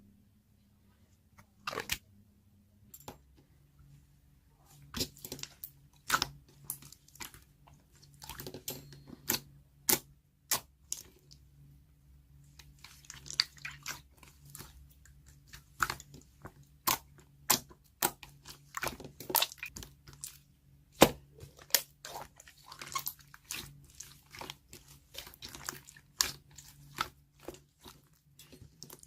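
Tough, stretchy slime with small dice charms mixed in being squeezed, stretched and folded by hand, making irregular sharp clicks and pops, denser in the second half. A faint steady low hum sits underneath.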